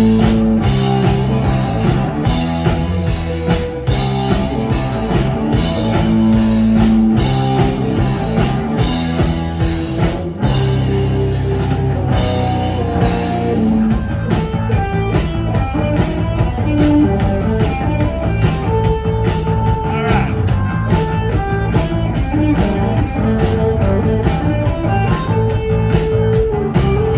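Rock band playing live, an instrumental passage of electric guitar and drum kit with no vocals. About halfway through, the dense, heavy chords give way to a sparser, more rhythmic part with regular drum hits and higher guitar lines.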